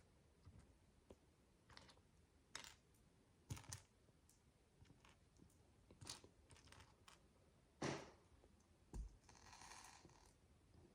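Faint, scattered clicks and small taps of micro bricks (miniature building blocks) being handled and pressed together, a few seconds apart, with a brief rustle about nine seconds in.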